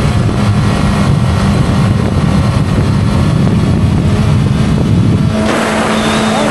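Sport motorcycle engine running at a steady speed under a dense rushing rumble. About five seconds in, the rumble eases and the sound changes.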